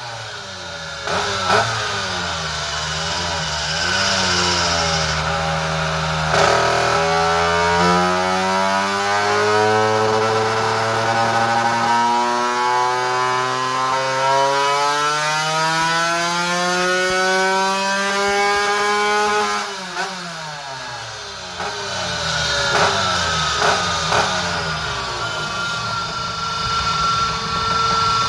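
Two-stroke scooter engine with a Quattrini M1L 60x53 cylinder kit and Quattrini RR expansion exhaust, revving: its pitch climbs slowly for about twelve seconds, drops sharply about twenty seconds in, then rises again with a few quick blips.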